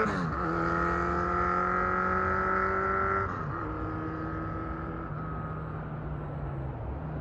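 Kawasaki Z1000 inline-four running through an LCI round short muffler fitted with the 32 mm quieter baffle. Its pitch drops sharply right at the start and again about three seconds in, holding steady between the drops, like upshifts under way, and it settles lower near the end.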